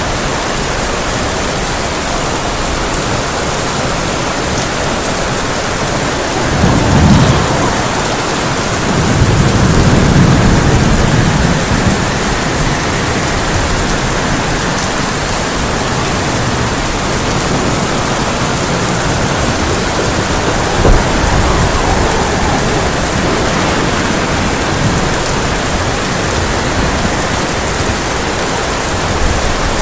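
Heavy rain drumming steadily on a tin roof, with a roll of thunder about seven seconds in and a longer, deeper rumble from about nine to twelve seconds.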